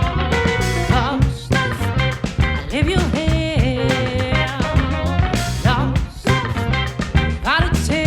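Live soul-funk band playing: a steady drum beat and heavy bass line under a melody that slides and bends in pitch.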